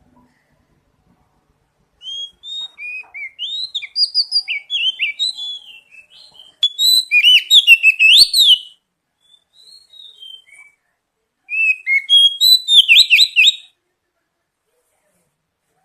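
Oriental magpie-robin (kacer) singing in bouts of rapid, varied whistled phrases sliding up and down, three bursts of song with short pauses between. It is a lure song meant to set captive kacer singing.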